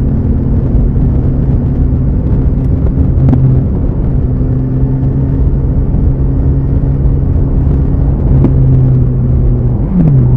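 BMW S1000R inline-four motorcycle engine running at steady cruising revs under way, heard over heavy wind rumble on the microphone. The engine note falls briefly near the end.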